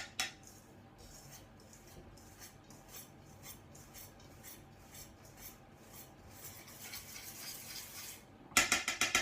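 Hand whisk stirring dry flour mix in a mixing bowl: soft scraping strokes about twice a second. Near the end comes a quick run of louder clinks against the bowl.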